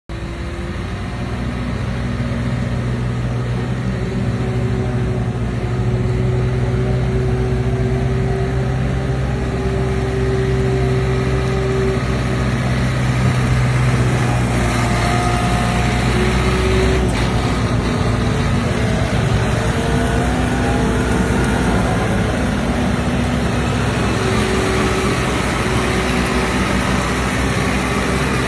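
Tractor diesel engine running continuously, its speed shifting up and down a few times.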